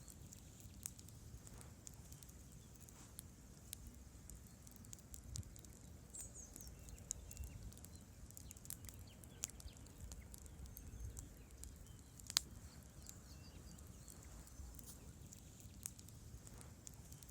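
Wood campfire crackling faintly: scattered small pops and snaps, with one sharper pop about twelve seconds in, over a low steady rumble of burning.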